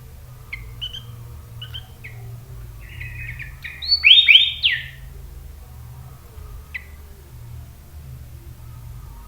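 Sooty-headed bulbul (kutilang) calling: a few short chirps, then a loud burst of rich, quickly sliding whistled notes about four seconds in, and one more short chirp near seven seconds.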